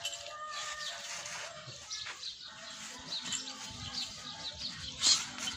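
Small birds chirping over and over, with a brief loud noise about five seconds in.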